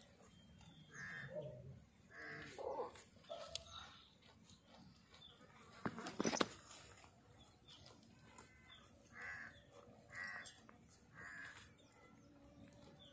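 Birds cawing in short calls scattered through, the last three about a second apart. A brief louder noise comes about six seconds in.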